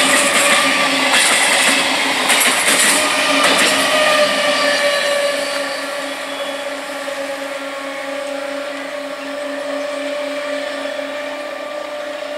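Indian EMU local train coaches running close past, wheels clattering and rattling over the rails. About five seconds in, the sound drops to a quieter, steady hum with a low pulsing tone as another EMU approaches from a distance.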